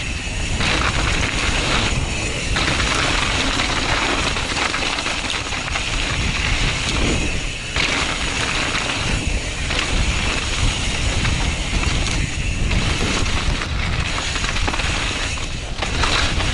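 Mountain bike descending a wet dirt trail, heard from a helmet-mounted camera: steady, loud wind rush on the microphone over tyre and bike rattle, with a few brief dips.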